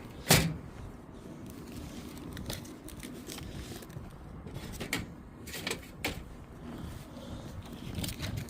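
Filters and sheet-metal panels of a rooftop HVAC unit being handled: a sharp knock right at the start, then scattered light clicks and scrapes, over a low wind rumble on the microphone.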